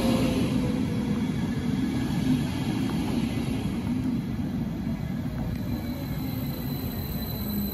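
BLS double-deck electric multiple unit rolling slowly past along the platform. Its wheels rumble on the rails while the traction motors' whine slides down in pitch as the train slows.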